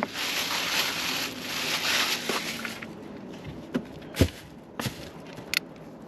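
Footsteps crunching on rough, gravelly ground for the first few seconds, then a few separate clicks and knocks.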